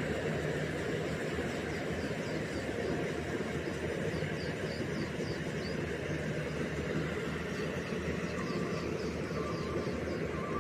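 Engine of a small rice combine harvester running steadily. Groups of faint, short, high chirps repeat over it.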